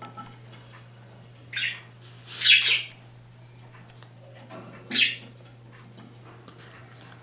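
Pet parrots, a cockatiel and a budgie, giving three short, harsh calls: a couple of seconds in, a louder one right after, and another about five seconds in. A steady low hum runs underneath.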